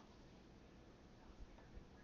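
Near silence: room tone with a couple of faint small clicks, one about one and a half seconds in and another shortly after.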